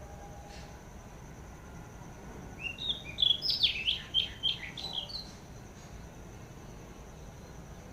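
A songbird sings one quick phrase of rapid, varied chirping notes, lasting about two and a half seconds, starting about a third of the way in. Behind it a steady, faint, high-pitched whine and a low background rumble carry on throughout.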